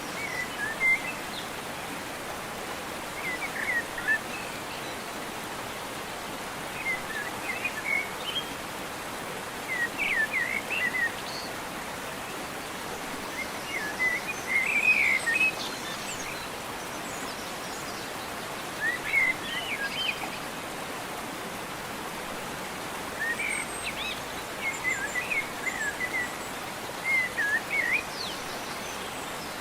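Birds chirping outdoors in short clusters of calls every few seconds, over a steady background hiss.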